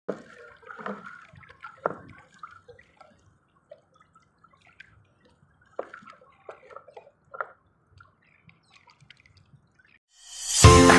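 Irregular drips and small splashes of water, scattered, light sounds with gaps between them. Loud background music fades in near the end.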